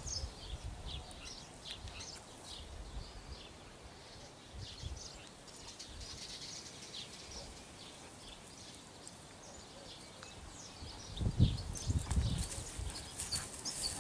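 Small birds chirping, many short high calls throughout. Near the end come a few dull low thumps and rumbles, louder than the birds.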